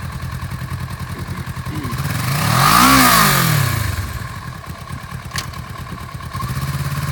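Kawasaki Versys 650's parallel-twin engine idling, blipped once to a rev that rises and falls back to idle about three seconds in, then idling again.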